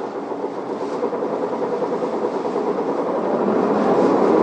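Isuzu Erga city bus's diesel engine heard from inside the cabin, pulling away from a stop. Its steady hum grows louder from about three seconds in as the bus accelerates.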